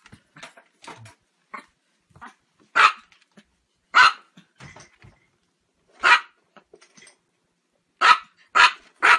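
A Chihuahua barking in sharp, high yaps: about six loud barks a second or two apart, the last three coming close together near the end.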